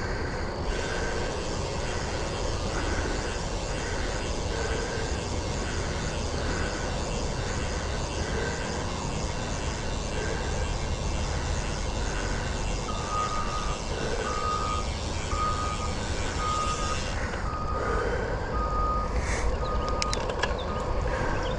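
Steady wind and wet-tyre noise from riding a bicycle in the rain. Over it, a short high beep or squeak repeats about every two-thirds of a second and drops a little in pitch about two-thirds of the way through.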